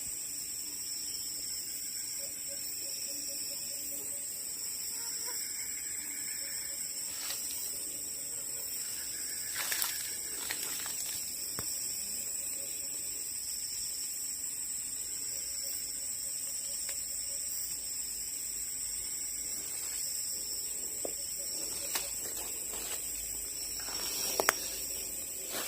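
Steady high-pitched drone of forest insects, two even shrill tones held without a break, with faint low pulsing calls coming and going underneath and a couple of soft knocks about ten seconds in.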